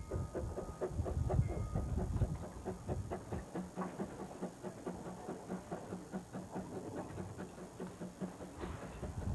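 Narrow-gauge steam train running, with a fast, even beat of about five knocks a second and a low steady hum through the middle.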